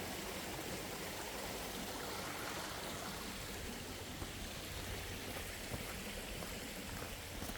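Running water: the steady, even rush of a stream.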